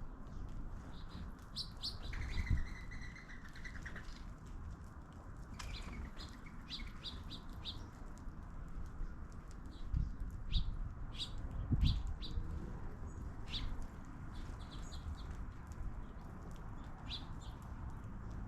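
Small songbirds chirping with short, high, scattered calls, and a buzzy trill about two seconds in. A few dull thumps come a little past the middle and are the loudest sounds.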